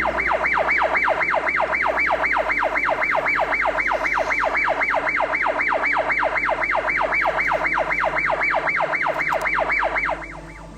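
Electronic siren in a fast yelp, rising and falling about four times a second. It stops suddenly near the end.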